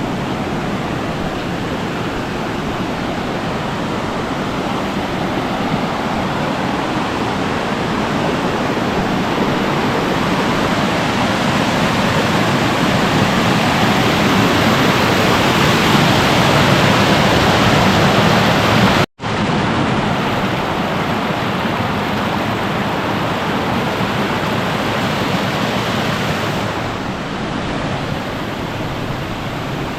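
Rushing water of a waterfall, a steady hiss that grows gradually louder, drops out for an instant about nineteen seconds in, then carries on a little quieter.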